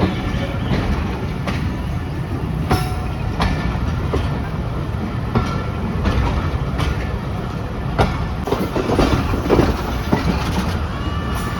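Pakistan Express passenger train running along the line, heard from on board: a steady rumble of the coach with irregular sharp clicks of the wheels over rail joints.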